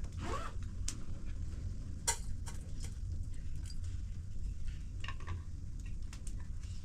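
Scattered light knocks and clicks over a steady low rumble, with a brief voice-like sound at the very start.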